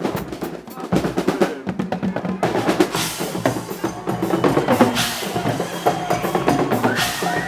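Marching drums playing in a street procession: snare rolls and bass drum beats, many strikes close together.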